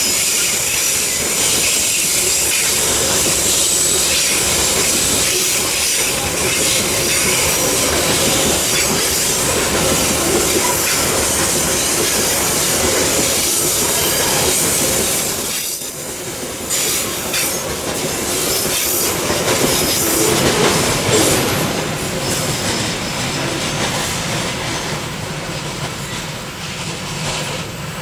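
Loaded coal hopper wagons rolling slowly through a rail yard, steel wheels squealing with a steady high screech and knocking over rail joints. The noise drops briefly about halfway through, then rises again and eases near the end.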